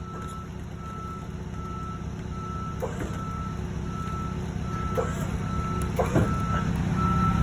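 Forklift backup alarm beeping steadily about twice a second over the low running of its engine, which grows louder toward the end. A few brief knocks are heard about three, five and six seconds in.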